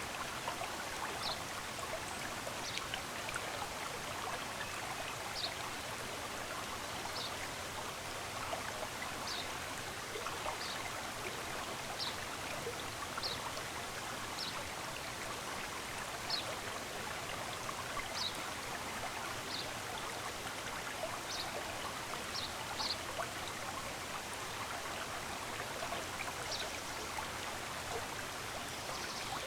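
Stream of running water rushing steadily, with a bird repeating a short, high chirp every second or two over it.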